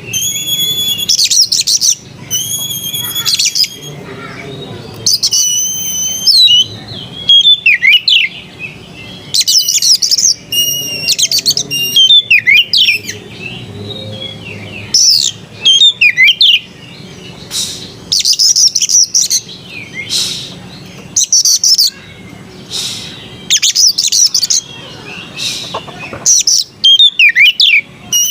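Oriental magpie-robin (kacer) singing: phrase after phrase of clear whistled notes, quick sweeping notes and rapid trills, each phrase separated by a short pause.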